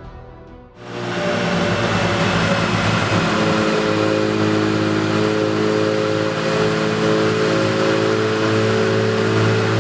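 Twin-turbocharged V12 of a Lamborghini Murcielago LP640 running on a chassis dyno. It comes in loud about a second in and then holds a steady pitch.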